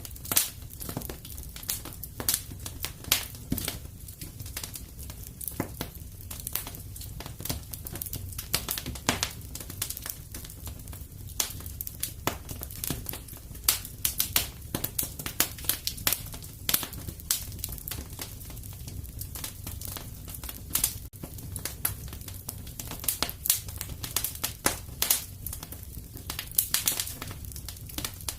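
Wood fire in a fireplace crackling: a steady low rumble with dense, irregular sharp pops and snaps.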